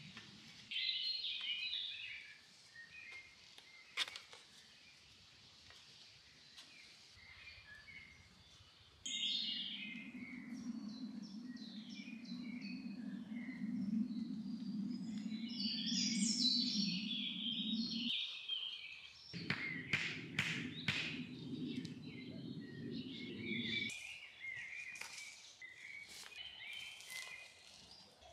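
Forest birds chirping and singing in short, scattered calls. A low, even rumbling noise cuts in abruptly about nine seconds in and drops out around eighteen seconds, then returns for several seconds. There is a sharp click early on and a quick run of clicks about two-thirds of the way through.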